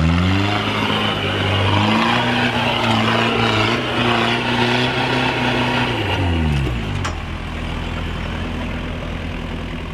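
Kubota turbo diesel in a Suzuki Samurai rock crawler revving up under load. It holds high revs for several seconds, then drops back toward idle about six and a half seconds in. A single sharp click comes just after.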